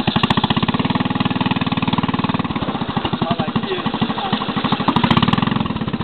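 Mini motocross bike engine running, a fast, even train of firing pulses. It changes a little about two and a half seconds in and is loudest around five seconds.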